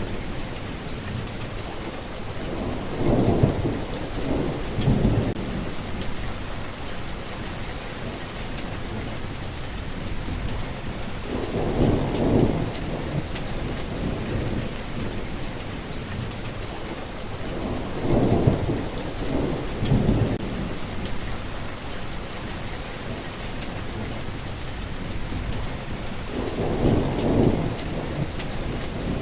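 Steady rain with rolling thunder: four low rumbles, each lasting about two seconds, swell up and fade back into the rain roughly every seven or eight seconds.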